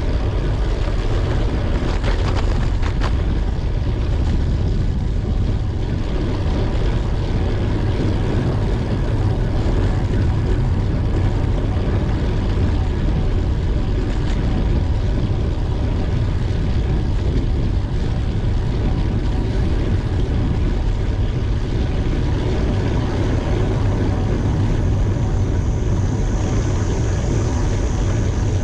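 Steady, loud wind rush on the microphone with road noise while riding a bicycle; a high, thin hiss joins near the end.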